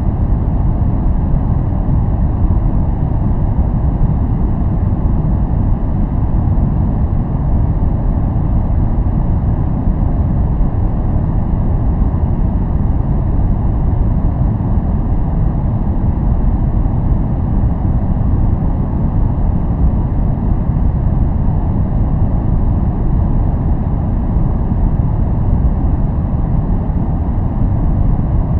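A steady, unbroken noise track played for focus and relaxation. It is a deep, even hiss weighted heavily to the low end, with little treble and no changes or events.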